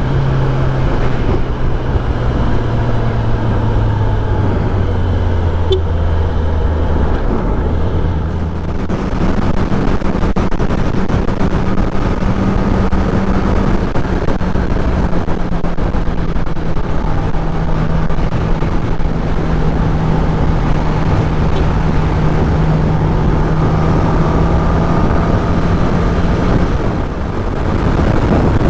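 Kawasaki ZX-10R inline-four sportbike engine running on the move, with steady wind and road rush. Its note sinks over the first several seconds, jumps higher about a third of the way in, and then holds steady.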